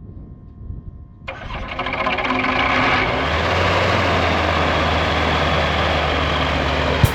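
An engine starts about a second in and builds quickly to a steady, loud run.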